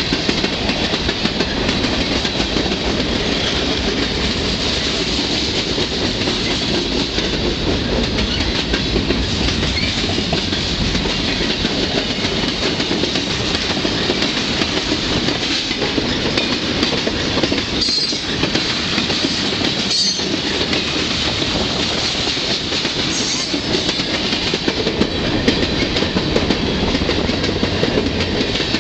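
Freight train cars rolling past close by: a steady loud rumble with the clickety-clack of wheels over the rail joints. A few short high squeals come about two-thirds of the way through.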